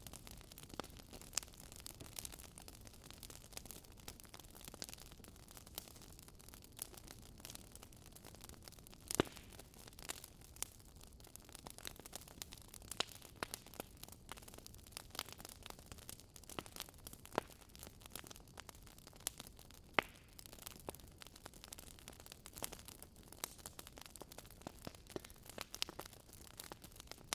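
Wood campfire crackling, with sharp irregular pops and snaps, the loudest about 9 and 20 seconds in, over a steady hiss of flowing river water.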